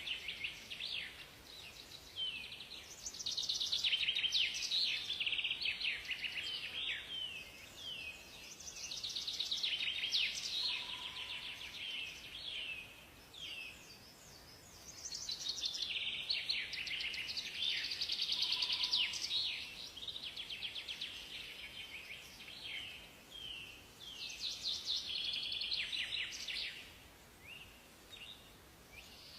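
Songbirds singing in a forest: long, rapid, high twittering phrases in bouts of a few seconds, with quieter gaps between them.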